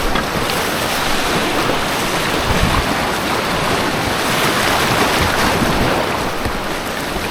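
Steady, loud rush of white water on an artificial whitewater course, heard from the water.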